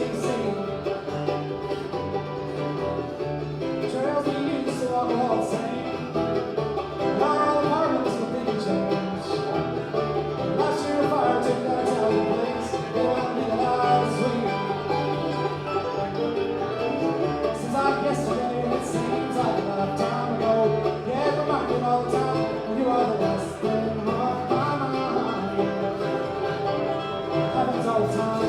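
Bluegrass band playing live, with banjo and guitar picking over a steady low bass line.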